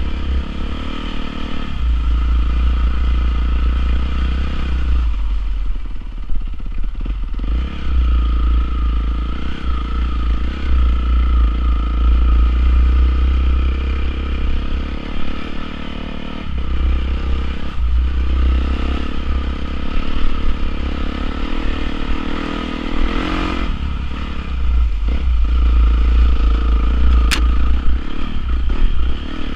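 Honda CRF450R dirt bike's single-cylinder four-stroke engine running, its note falling away a few times and picking up again as the throttle is eased and reopened.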